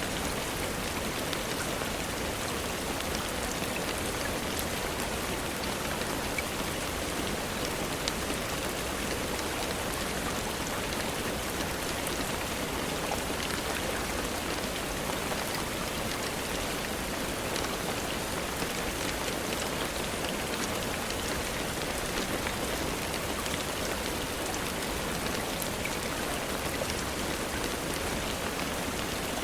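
Steady, even rainfall with scattered small ticks of drops.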